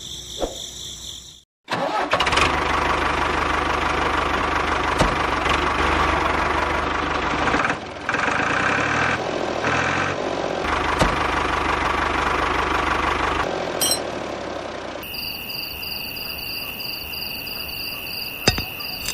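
A motor running steadily for about twelve seconds, with a brief dip partway through, then cutting off. Quieter steady high tones follow near the end.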